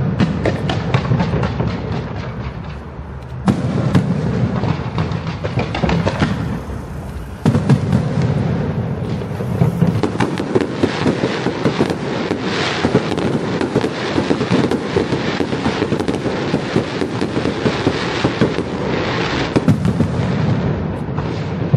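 Fireworks going off in a rapid, continuous barrage of bangs and crackles, with sudden louder surges about three and a half and seven and a half seconds in.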